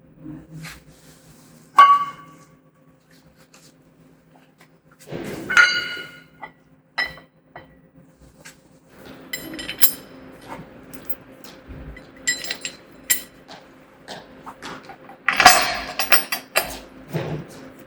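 Metal parts and tools clinking and knocking together during assembly of a portable sawmill's metal bed. There are sharp ringing metal strikes about two seconds in and near six seconds, scattered lighter clinks, and a denser clatter near the end, over a faint steady hum.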